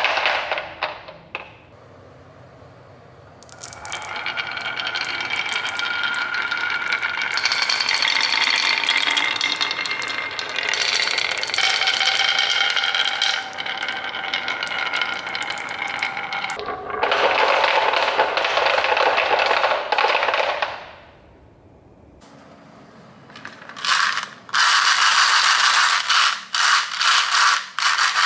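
Marbles rolling and rattling down a plastic marble-run track. There is a long rolling stretch with a shifting whirr, then a dense rattle, and choppy clattering near the end.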